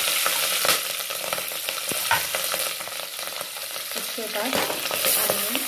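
Green chillies sizzling and frying in hot oil in a metal pot, a steady hiss with a few scrapes and clicks against the pot.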